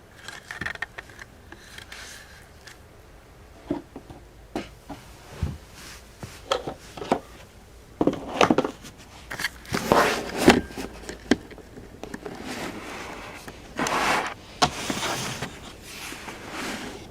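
Irregular scraping and rustling with a few light knocks and taps, as a cat moves about and paws at things in a small room.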